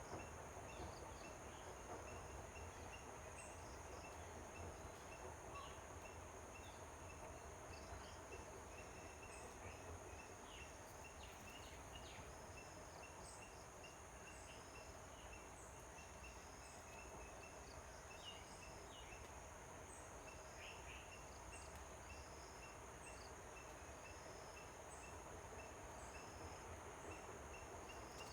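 Faint outdoor ambience: a steady high insect drone with a fast, even run of high chirps, and scattered short bird calls now and then.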